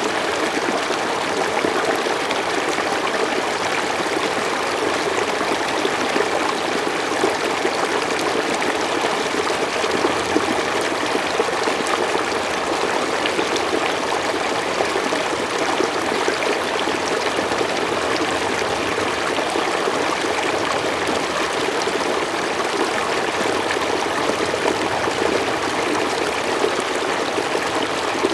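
Mountain stream flowing steadily over rocks, a continuous rushing and splashing with small gurgles throughout.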